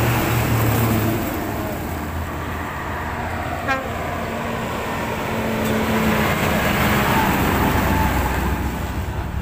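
Heavy truck engine running as it passes on the road, with road noise swelling a little past the middle.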